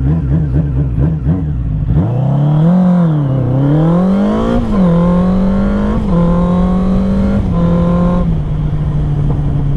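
1996 Suzuki Katana 600's inline-four engine running under way. The revs rise and fall, then climb to a peak about four and a half seconds in. They drop and hold steady, with another step down about eight seconds in.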